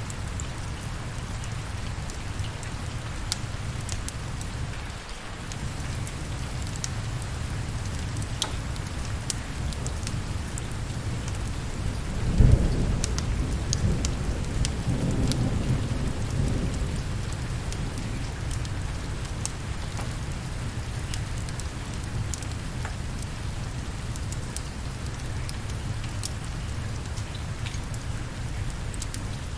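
Steady rain with scattered sharp crackles, and a thunderclap about twelve seconds in that rumbles away over the next few seconds.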